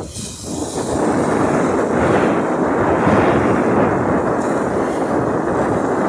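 Ocean surf: a wave breaking and rushing up the beach, a loud even wash that swells in about a second in and holds for about five seconds before falling away.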